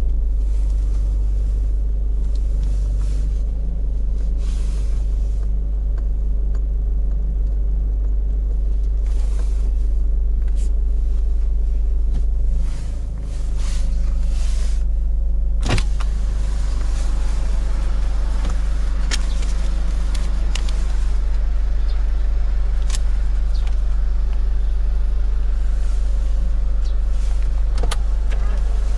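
Car engine idling with a steady low rumble, heard from inside the car, with a few sharp clicks along the way.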